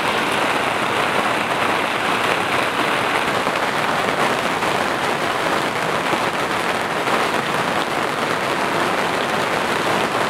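Heavy rain falling on a tent's fabric, heard from inside, over the rush of a flash flood: an even, unbroken hiss.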